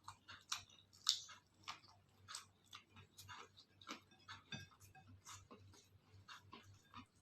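Close-miked chewing, with wet mouth clicks and smacks coming irregularly about one to two a second; the loudest is about a second in.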